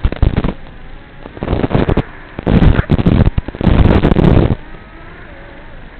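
Gusts of wind buffeting the camera microphone in loud, rumbling bursts about a second long, several times over, with a faint whine rising and falling in the quieter gaps.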